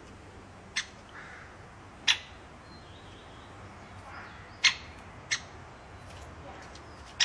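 A bird pecking at its food: five short, sharp taps at irregular intervals, a second or two apart, with faint soft rustling between them.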